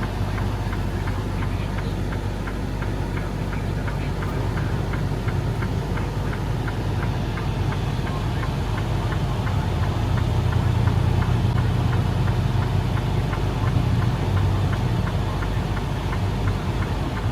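Semi-truck's diesel engine running, heard from inside the cab as a steady low drone that grows somewhat louder about ten seconds in. A faint, even ticking of about three a second runs through it.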